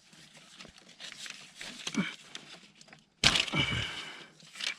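Faint scattered clicks and knocks of hands working on parts. After a brief dropout, a louder burst of clatter and rustling about three seconds in.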